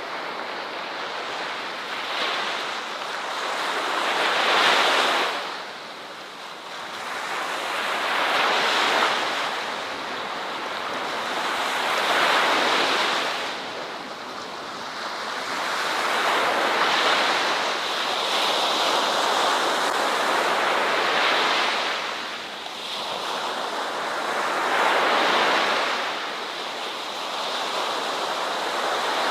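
Ocean waves breaking on a shore, the surf swelling and ebbing in a slow rhythm of about one wave every four to five seconds.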